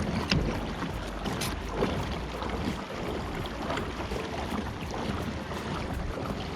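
A pedal-drive fishing kayak under way, with water splashing and lapping along its hull and scattered small knocks.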